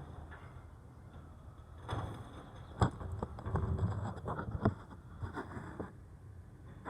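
Garbage truck at work: a run of clattering knocks and bangs lasting about four seconds, with two louder bangs, over a low rumble.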